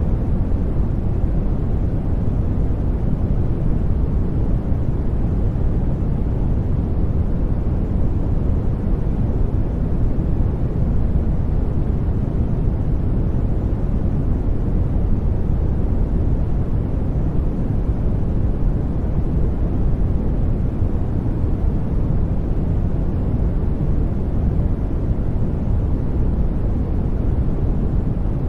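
A steady sleep-noise track: a deep, even rush with no changes, weighted toward the low end rather than hissy.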